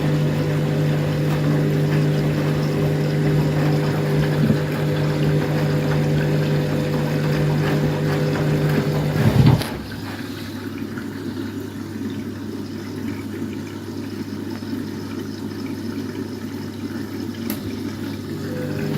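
Overloaded washing machine filling with water for a rinse: a steady motor hum over water running into the drum. About halfway through, the hum stops with a knock, leaving only the water flowing in.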